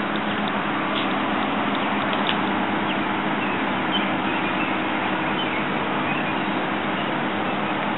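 Steady rushing background noise with a faint low hum and a few faint ticks scattered through it.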